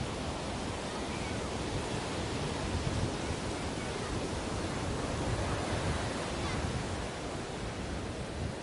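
Sea waves washing onto a beach: a continuous rush of surf that swells slightly about five seconds in.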